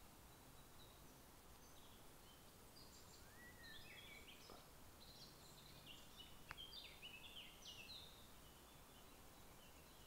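Faint birdsong: a run of short high chirps and trills with one rising whistled note, from about three to eight seconds in, over a quiet outdoor hiss. A single soft click near the middle.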